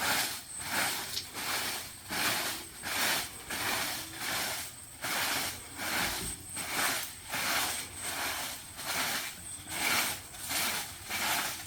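Hand saw cutting bamboo in steady back-and-forth strokes, about two a second.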